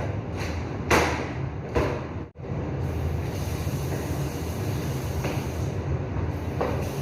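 Sandstorm wind buffeting the microphone: a steady low rumble with a few loud gusts in the first two seconds, then an even rush of wind.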